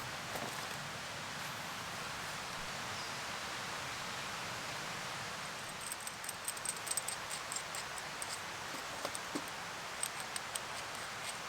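Steady rain falling in the woods, an even hiss, with scattered light ticks from about halfway on.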